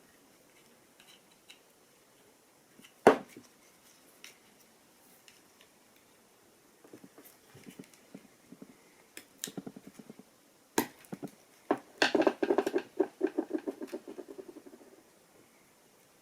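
Clicks and knocks of hand work on washing-machine parts during a circulation pump replacement, with one sharp knock about three seconds in. About twelve seconds in comes a rapid run of ratchet-like clicks that dies away over some three seconds.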